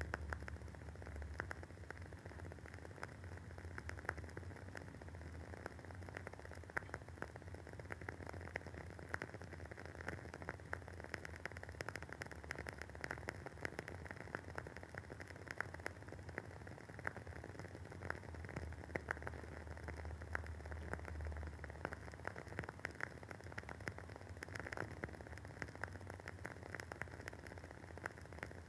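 Wooden candle wick crackling as it burns: a dense, irregular stream of small pops and snaps, some louder than others, over a low steady hum.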